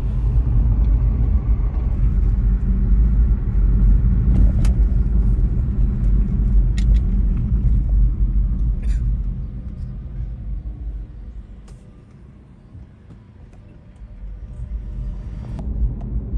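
Car interior road noise: a steady low rumble of the car driving. It dies down about ten seconds in and builds again near the end, with a few faint ticks over it.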